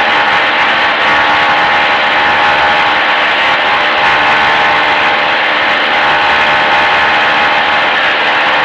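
Light aircraft's piston engine held steady at run-up power, about 1700 RPM, heard from inside the cabin.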